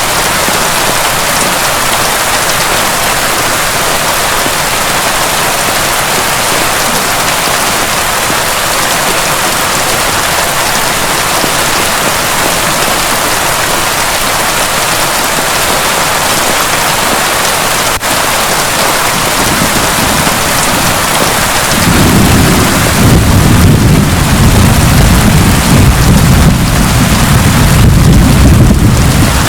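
Heavy rain falling steadily with a dense, even hiss. About three-quarters of the way through, a long low rumble of thunder rolls in and keeps going, making the storm louder.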